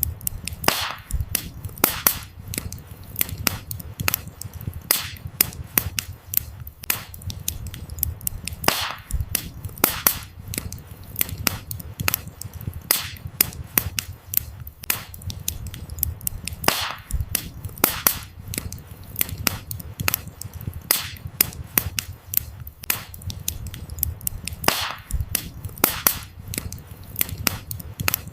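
Wood fire crackling: irregular sharp pops and snaps several times a second over a soft low rumble of burning.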